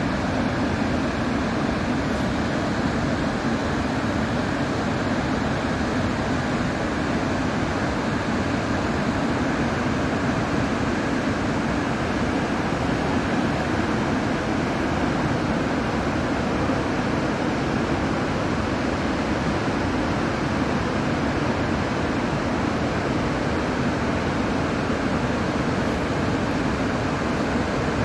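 Waterfall at Iguazu Falls: the steady, unbroken rush of a great mass of falling water, deep and even in level.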